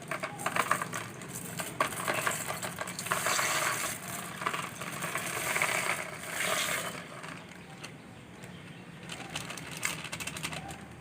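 Small colourful aquarium gravel stones poured into a tub of water: a dense clattering rattle of many little stones for about seven seconds, then a few scattered clicks as the last ones drop.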